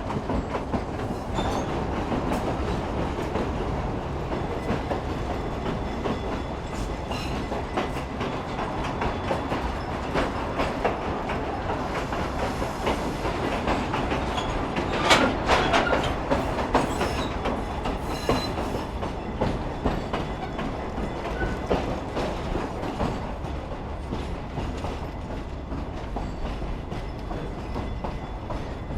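Railroad passenger car rolling along the track, with steady rumbling and its wheels clicking over the rail joints. It gets louder for a moment about halfway through.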